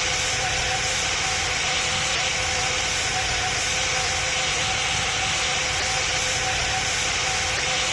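Boeing 777 jet engines and airflow heard inside the cabin: a steady, even rush with two faint steady hums.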